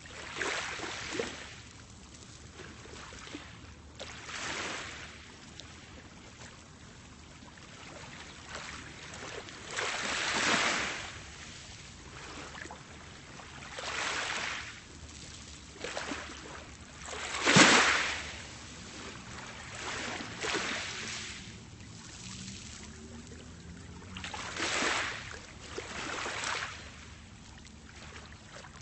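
Small, calm sea waves washing onto a pebble beach, each swell rising and falling away in a hissing wash every few seconds, the biggest one a little past halfway.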